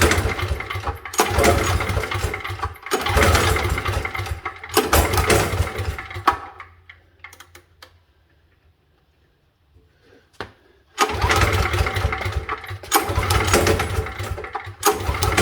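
Briggs & Stratton 5,550-watt gas generator engine being pull-started on choke. Four recoil pulls come in quick succession, each turning the engine over without it catching. After a pause of about four seconds come three more pulls: a failed start.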